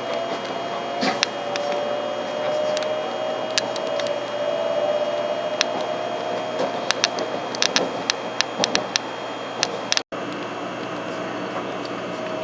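Interior running noise of a 700-series Shinkansen train: a steady rush with a motor whine that drifts slowly in pitch, and scattered sharp clicks. The sound drops out for an instant about ten seconds in.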